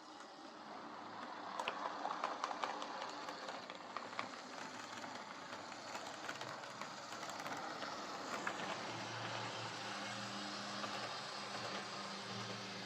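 OO gauge Lima Class 55 Deltic model locomotive running along the track, its motor whirring with scattered light clicks, growing louder over the first couple of seconds as it comes closer; a low steady hum joins later on.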